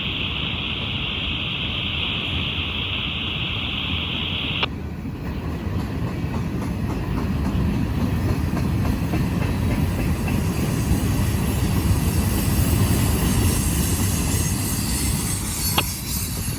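Freight train rolling past, the cars' wheels clattering over the rails and growing louder toward the middle. For the first four and a half seconds a steady radio-scanner hiss sits over it, then cuts off with a click.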